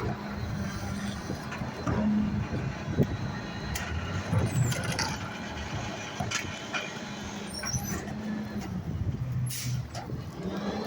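Rear-loader garbage truck's engine running, with scattered clicks and knocks and a short air hiss near the end.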